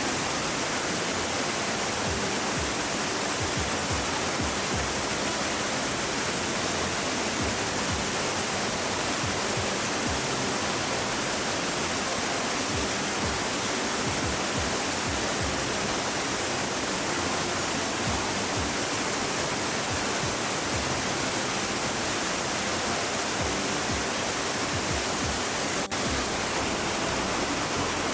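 A waterfall gives a steady, unbroken rush of falling water. There is a brief click near the end.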